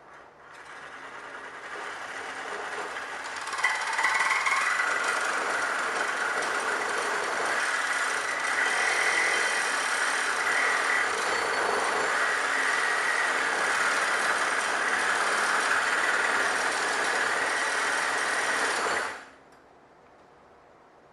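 Reciprocating saw (Sawzall) cutting through a weld on a steel frame, a steady grinding rasp that builds over the first few seconds and then cuts off suddenly near the end.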